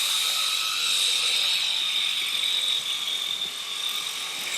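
Small electric motor and propeller of a toy remote-control airplane running at full throttle: a steady high-pitched whine with airy hiss, easing slightly in loudness toward the end.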